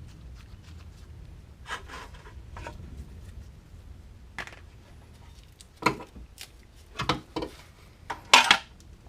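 Metal tools and hardware clanking and scraping: a series of separate knocks a second or so apart, the loudest a double clank near the end.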